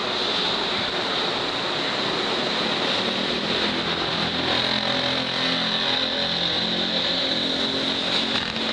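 Steady running noise of a JR Kure Line train heard from inside the carriage, with a low hum in the middle of the stretch.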